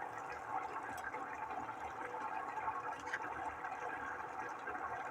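Chicken curry simmering in a pot on the stove: a steady, soft bubbling hiss, with a couple of faint clicks.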